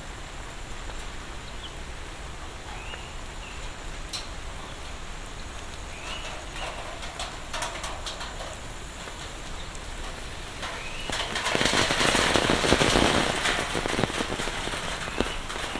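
Monsoon rain falling steadily, then swelling into a heavy downpour about eleven seconds in before easing a little near the end.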